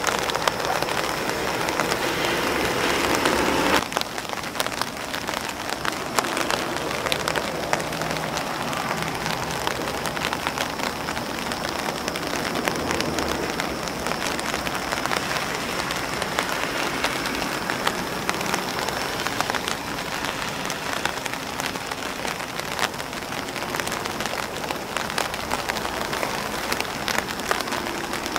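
Rain pattering on an umbrella and on grass leaves, a dense steady spatter of individual drop ticks. It is louder and fuller for the first four seconds, then drops abruptly to a lighter patter.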